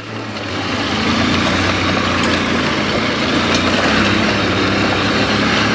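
Honda Unicorn motorcycle's single-cylinder four-stroke engine running under way on a rough road, mixed with a steady rush of wind; it grows louder over the first second, then holds steady.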